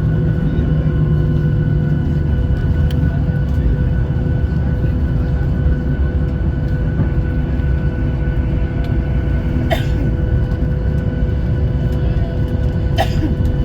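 Boeing 737-800 cabin noise: its CFM56 turbofans and the airflow make a steady rumble with a few held engine tones. Two short knocks come about ten and thirteen seconds in.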